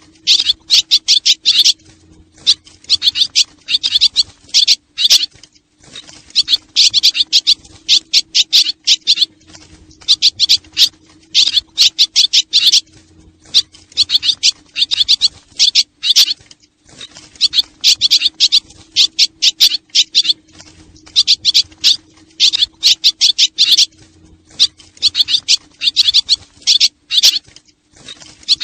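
Swallow lure recording: bursts of rapid, high twittering swallow calls lasting a second or two, repeating every couple of seconds with short gaps between them.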